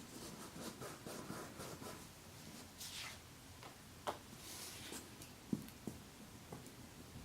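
Glue stick rubbed across construction paper in quick short strokes, then paper rustling and a few light taps as the pieces are handled.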